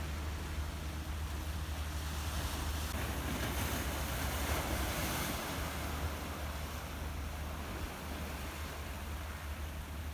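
Sea waves washing onto the shore, with wind rumbling on the microphone; the wash swells up about four seconds in and then eases.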